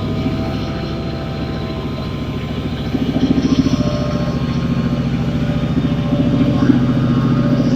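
A diesel train's engine running with a fast, even throb, growing louder about three seconds in.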